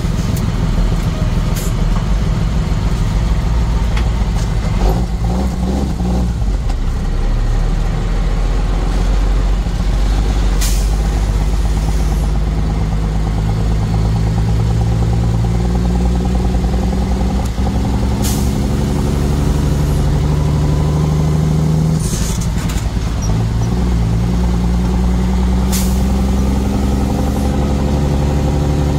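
Truck engine running under load, its pitch slowly climbing as it pulls, dropping about three quarters of the way through and climbing again. A few brief hisses break in along the way.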